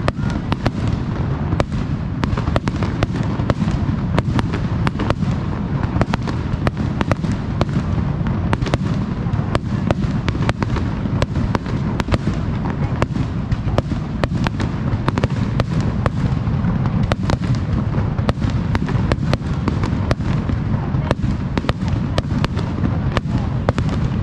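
Fireworks display: a continuous barrage of aerial shell bursts, many sharp bangs and crackles in quick succession over a constant low rumble.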